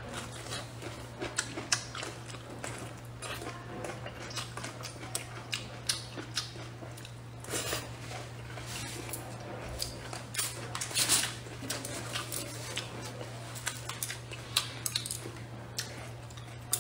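Close-miked eating: wet chewing and mouth smacks on braised pork belly, with many short sharp clicks scattered throughout over a steady low hum.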